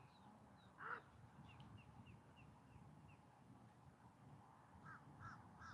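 Faint bird calls against a quiet outdoor background: a run of about six short high chirps in the first half, then a few lower calls repeated near the end.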